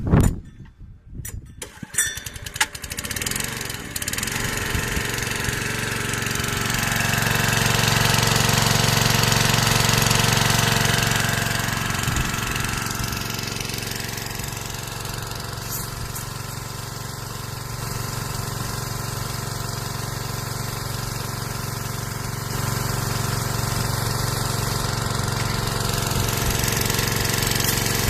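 Small engine of an Arimitsu Unispray CSE-320K power sprayer starting after a few sharp knocks, catching about two to four seconds in, then running steadily. It gets louder for a few seconds around the middle, then settles into an even run.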